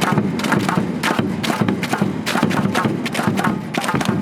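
Stadium crowd clapping along to music over the PA, with sharp claps about three a second, somewhat out of time with one another.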